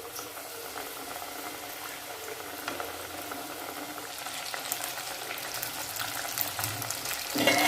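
Marinated chicken pieces frying in hot oil in a pan: a steady sizzle with crackling that grows a little busier as it goes, and a brief louder noise near the end.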